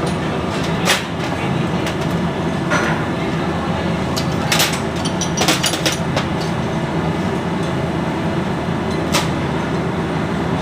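Scattered sharp metal clinks and knocks, a few single strikes and a quick cluster around the middle, over a steady low mechanical hum.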